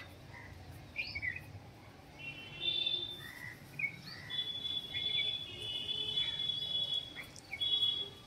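Birds chirping and calling: short chirps at first, then several long, steady high whistled notes through the second half.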